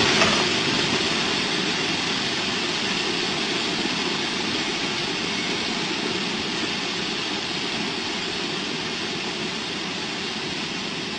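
A train running by with a steady, even noise that slowly fades away.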